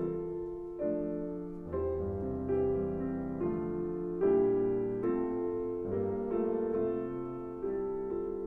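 Background piano music: slow, gentle chords struck about once a second, each left to ring.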